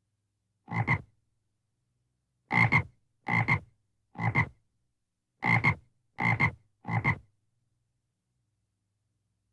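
A frog croaking: seven short croaks, each a quick double pulse, coming in uneven groups over about six seconds.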